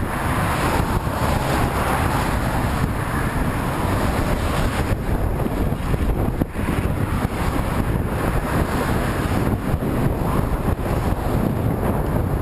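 Headwind buffeting the microphone of a camera on a moving bicycle: a steady, loud rush of wind noise, heaviest in the low end.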